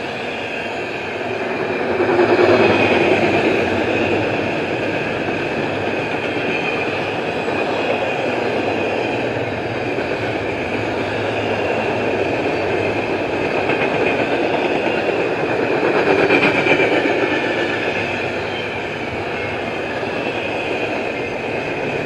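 Intermodal freight train's cars rolling past on the rails: a steady, loud rumble with a high ring over it, swelling louder about two seconds in and again around sixteen seconds in.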